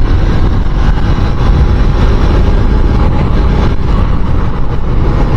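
Suzuki Inazuma motorcycle being ridden, its engine running steadily under heavy wind rush on the microphone.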